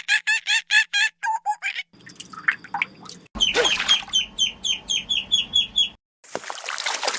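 Rapid runs of short, high chirping calls, about five a second, in two bursts with a brief pause between them. Splashing water follows near the end.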